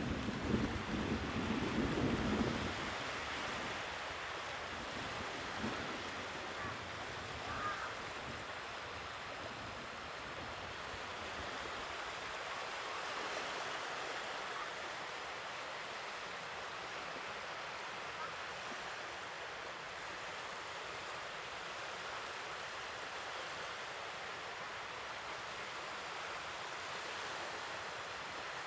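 Sea waves washing onto the shore, a steady rush of surf that swells and eases slowly. A low rumble sits under it for the first two seconds or so, then fades.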